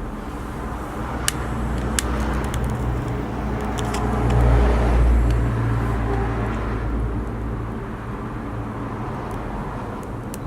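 A car passing on a nearby road: a low rumble that builds to its loudest about halfway through and then fades, with a few sharp cracks in the first two seconds.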